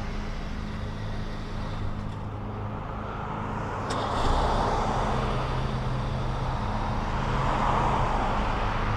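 Street traffic noise with a steady low engine hum; the noise swells louder from about four seconds in, with a single sharp click at that point.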